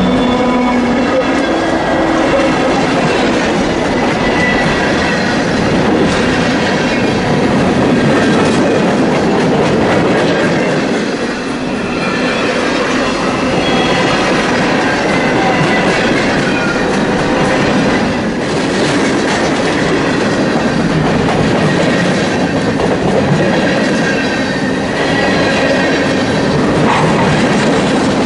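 Freight train cars rolling past at close range, a steady rumble with wheels clacking over rail joints and thin high wheel squeals. A low engine hum fades out about a second in.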